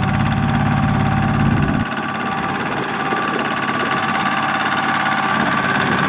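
Tractor engine running steadily; about two seconds in, a deep low rumble drops away abruptly, and the engine carries on at a higher, lighter pitch.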